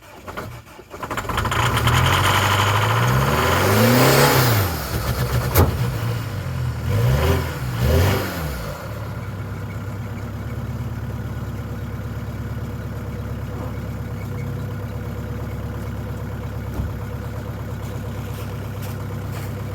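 2005 Jeep Liberty's 2.8L CRD four-cylinder common-rail turbodiesel cold-starting at 7°F on ether with its glow plugs not working: brief cranking, it catches about a second in, revs up and down three times, then settles into a steady idle.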